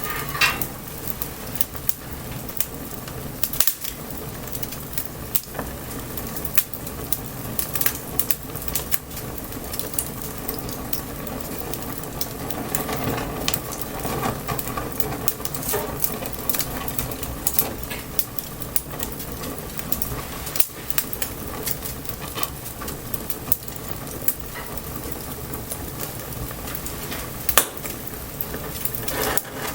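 Wood bonfire crackling steadily, with frequent sharp pops and snaps over a low hiss of burning; one louder pop about half a second in and another near the end.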